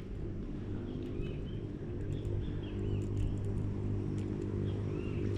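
A motorboat engine drones steadily at a low pitch, with birds chirping now and then over it.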